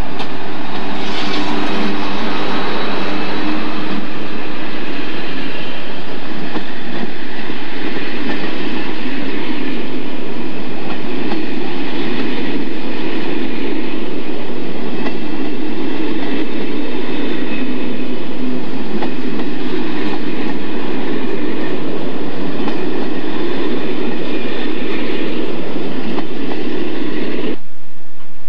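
Electric locomotive-hauled passenger train of Corail coaches rolling past close by, a loud, steady rumble of wheels and coaches that cuts off abruptly near the end.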